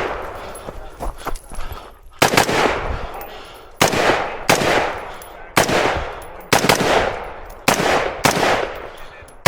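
Rifle shots fired in an unhurried string, about nine over seven seconds, starting about two seconds in. Each shot has a long echoing tail.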